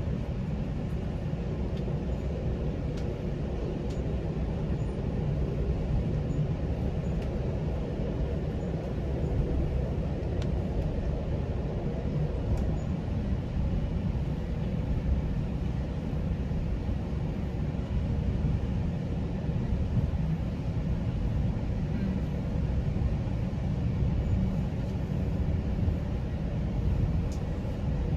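GO Transit commuter train running along the track: a steady low rumble that holds even throughout.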